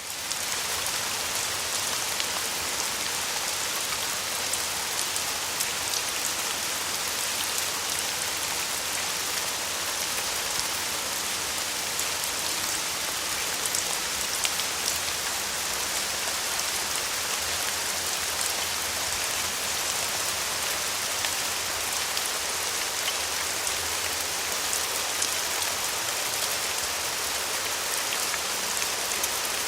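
Downpour: steady heavy rain, a dense even hiss with individual drops ticking through it.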